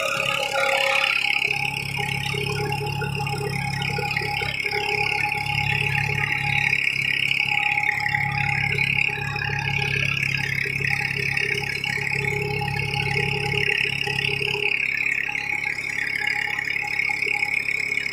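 Tractor engine running steadily while tilling with a cultivator. Its deep low rumble drops away about three seconds before the end.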